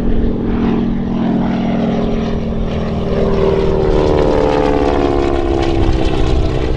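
Propeller airplane engine droning as it flies past, its pitch slowly falling in the second half.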